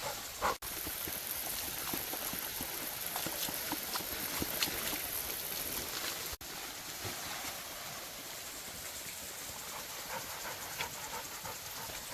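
Rottweiler panting over a steady hiss of outdoor background noise. The sound drops out sharply twice, about half a second in and about six seconds in.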